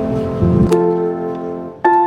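Background piano music: a chord struck about a second in rings and fades, and new notes come in near the end.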